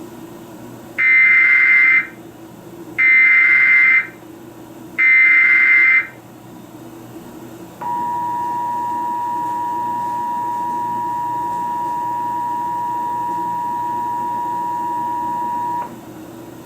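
Emergency Alert System tones: three one-second bursts of SAME header data, a second apart, then the two-tone attention signal held steady for about eight seconds. They open an alert that carries a severe thunderstorm warning.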